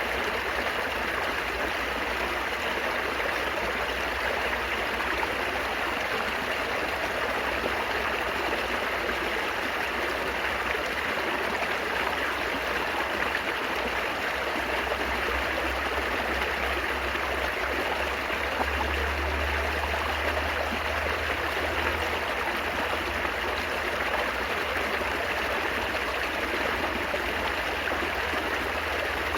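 Water babbling and trickling over stones in a shallow stream, a steady, unbroken rush.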